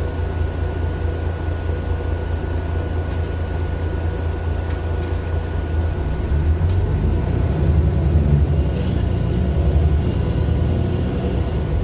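Mercedes-Benz Citaro LE city bus on the move, heard from inside the passenger cabin: its Daimler OM 457 hLA six-cylinder diesel runs with a deep rumble and a thin steady whine above it, growing louder about halfway through.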